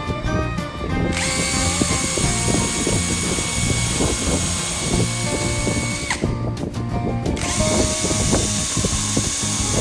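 An electric power tool running with a steady high whir. It starts about a second in, cuts out around six seconds and starts again over a second later, over background music with a steady beat.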